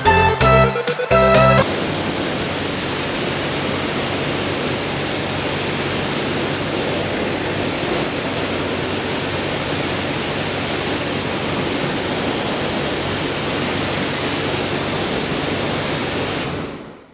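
Background music for about the first second and a half, then a steady hiss of a high-pressure washer jet spraying water, which dies away near the end.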